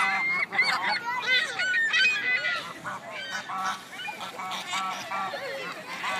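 A flock of seagulls and ducks calling over one another as they are fed: many short squawking calls overlap continuously.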